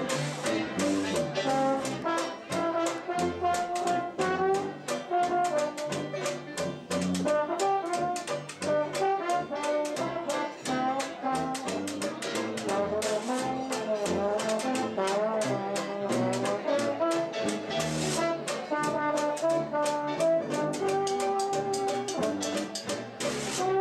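Jazz band playing an instrumental passage: a brass instrument carries the melody over a bass line and drums keeping a steady beat.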